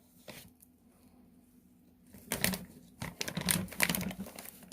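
Curry powder being shaken and tapped out of its packet over raw chicken pieces: a quick run of light taps and rustles starting about two seconds in.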